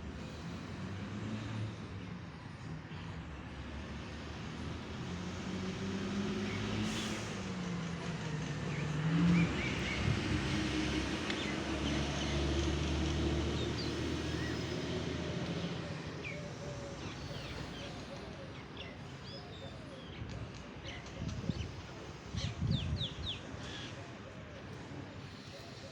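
A motor vehicle's engine passes by, growing louder for several seconds and then fading away, with a few bird chirps near the end.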